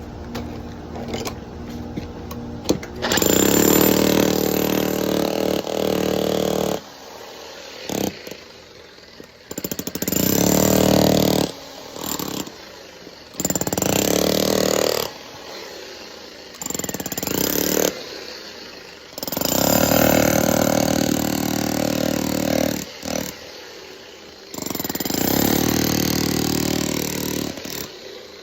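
Power tool chipping concrete, run in six bursts of one to four seconds with short pauses between.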